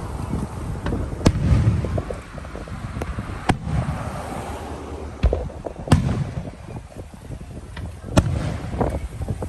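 Fireworks going off: a string of sharp bangs and crackles at irregular intervals, the loudest about a second in, at three and a half seconds, at six seconds and near the end, over a steady low rumble of wind on the microphone.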